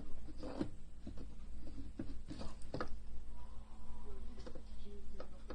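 Irregular light taps and clicks from a homemade mole-catching toy being played with by a cat, with a few faint short tones among them.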